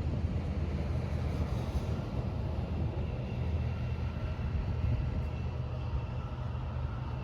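Steady road and engine noise of a car driving along a highway, heard from inside the cabin: a constant low rumble with tyre hiss.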